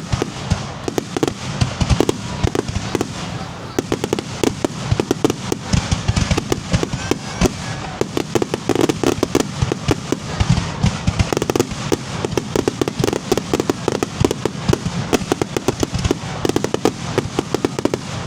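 Fireworks going off in a dense barrage: many sharp bangs and crackles each second, with heavier booms among them.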